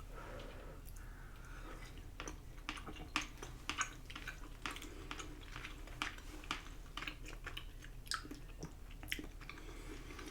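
Close-miked mouth chewing a bite of chewy Korean rice cakes (tteokbokki) in a spicy cheese sauce: an irregular run of soft clicks and smacks.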